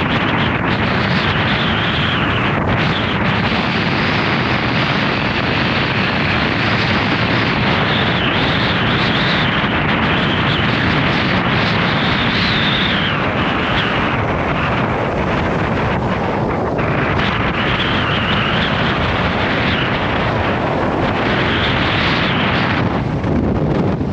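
Gale-force wind buffeting the microphone: loud, continuous wind noise with no let-up.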